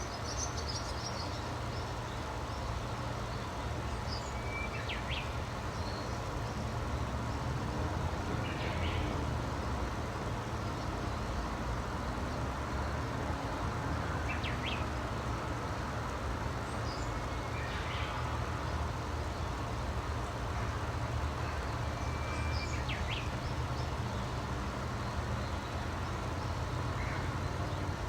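Songbirds giving short high chirps every four seconds or so over a steady low rumble.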